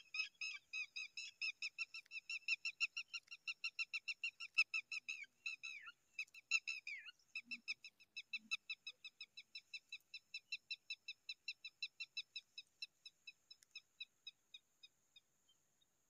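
Zitting cisticola calling at the nest: a rapid, even series of short chirps, about four a second. There is a louder, uneven flurry of notes about six or seven seconds in, then the chirps fade and stop near the end.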